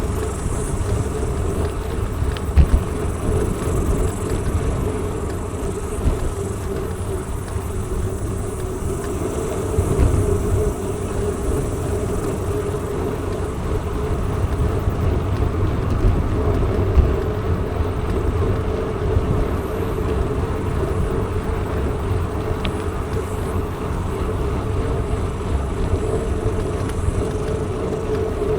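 Bicycle rolling along at a steady pace: a continuous rumble of tyre noise and wind on the microphone, with a steady hum in it and a couple of faint clicks.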